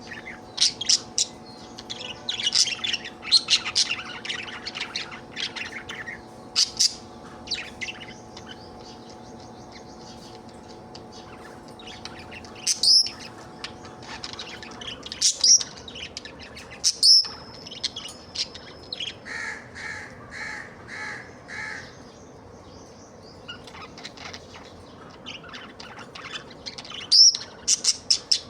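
Budgerigar chirping and warbling in bursts, with a few sharp high calls and, past the middle, a short run of five evenly spaced notes. A faint steady hum underneath stops about halfway through.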